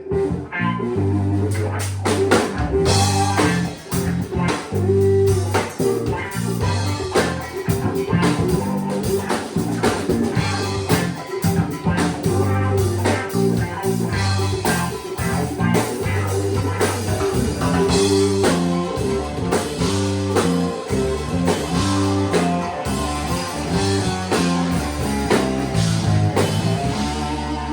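Band music with guitar over a steady bass line and a drum kit keeping a regular beat, in a bluesy style.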